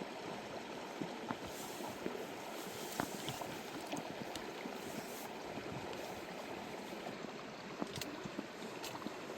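Steady rain falling, a continuous hiss with many light scattered ticks of drops.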